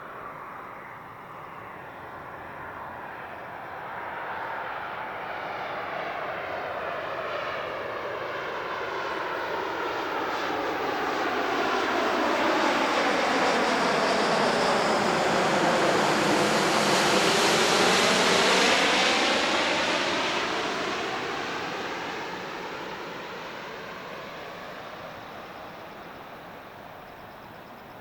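Airbus A350-900 airliner's Rolls-Royce Trent XWB jet engines on landing approach, passing low overhead. The rushing engine noise builds steadily, peaks about two-thirds of the way in, then fades, with a pitch sweep as the aircraft goes by.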